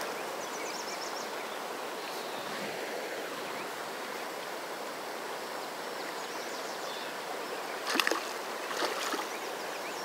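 Steady rush of flowing river water, with two brief sharp sounds near the end.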